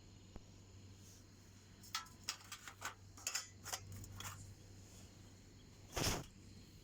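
Faint handling noises: a quick run of small clicks and scrapes, then one louder knock-like rustle near the end.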